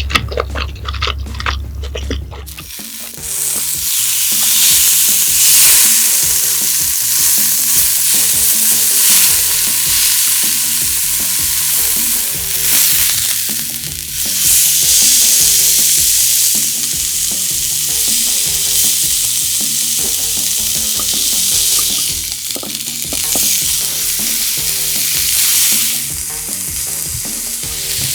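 Hanwoo beef sizzling on a hot grill: a dense, steady sizzle that sets in about two and a half seconds in and swells and eases over the rest of the stretch.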